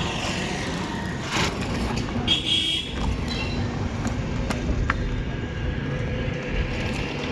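Steady rumble of street traffic, with a few sharp clicks and a brief high-pitched tone about two and a half seconds in.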